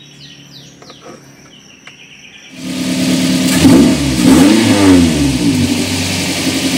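Daihatsu Gran Max 1.5's four-cylinder petrol engine comes in suddenly about two and a half seconds in. Its revs rise and fall for about a second and a half, then it settles to a steady idle.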